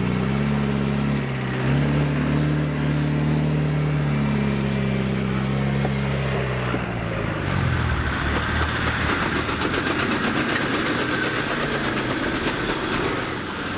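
Off-road vehicle engine running. Its pitch rises as it revs about a second and a half in, then falls away around six to seven seconds. It gives way to a rough, crackling rush of noise that holds until near the end.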